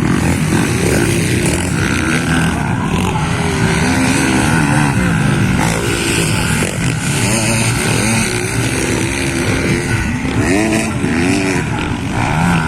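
Several motocross bikes racing, their engines repeatedly revving up and falling back as they change gear, with more than one bike heard at once.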